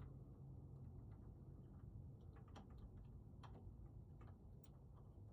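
Faint small clicks and ticks of lock cylinder parts being worked back together by hand, scattered and more frequent in the second half, over a steady low hum.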